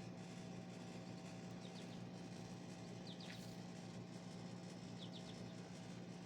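Faint outdoor ambience: a steady low hum with a few short, high bird chirps in small clusters, three times.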